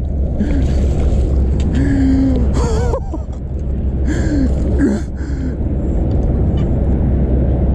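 Men's short gasps and strained groans while fighting a hooked bass at the boat, over a steady low rumble.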